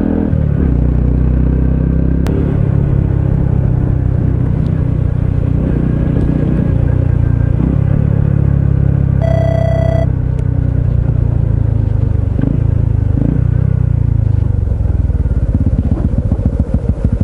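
Honda CT125 Hunter Cub's 125 cc air-cooled single-cylinder engine running steadily under way. About nine seconds in, a short high ringing beep sounds over it, and near the end the engine note falls and turns choppier.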